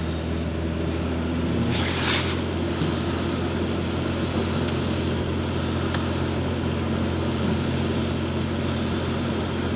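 Steady low motor hum with a rushing, noisy hiss over it, swelling briefly about two seconds in.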